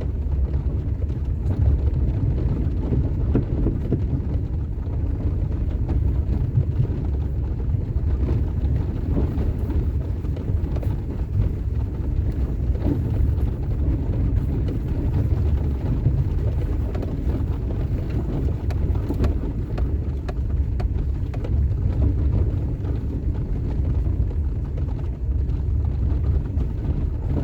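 Truck driving along a dirt trail: a steady low rumble of engine and tyres.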